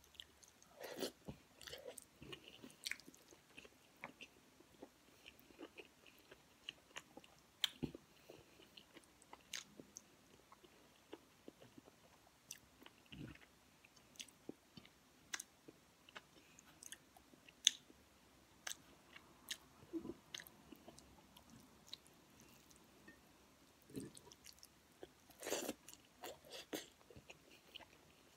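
A person chewing a mouthful of rice and kare-kare eaten by hand: short, irregular clicks of mouth and chewing sounds, with a louder cluster about 25 seconds in.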